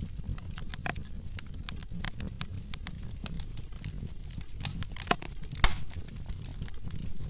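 Logs burning in a fireplace, crackling with irregular snaps and pops over a low steady rumble of flame. One loud pop stands out about five and a half seconds in.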